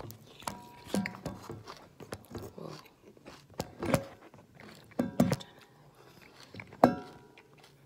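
Honey Bunches of Oats cereal being chewed close to the microphone, crunching, with scattered sharp clicks and knocks, a few with a short ring; the loudest knock comes near the end.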